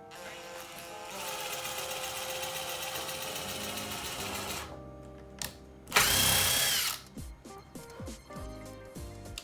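Power drill-driver driving screws into wood. It gives one long steady run of about four seconds, then a shorter, louder burst about six seconds in. Background music plays under it.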